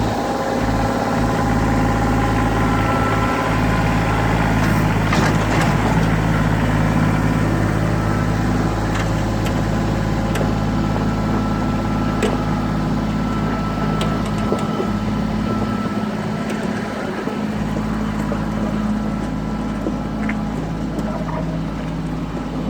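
Kubota L3700SU diesel tractor engine running steadily under work, with scattered clanks and knocks, a cluster of them about five seconds in.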